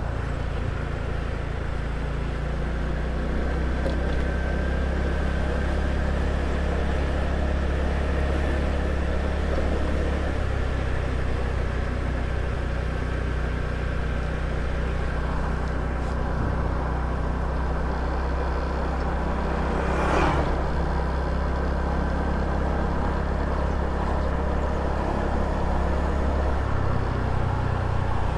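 Small motor scooter's engine running steadily while riding, its pitch shifting about ten seconds in and again near the end as the throttle changes. A brief louder rush about twenty seconds in.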